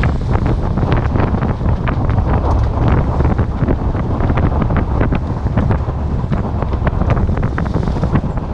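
Strong wind buffeting the microphone aboard a sailboat under way: a loud, steady low rumble broken by many short crackles.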